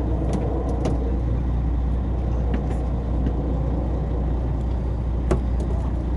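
A fishing boat's engine runs with a steady low hum, with a few sharp clicks and knocks on top, the loudest about five seconds in.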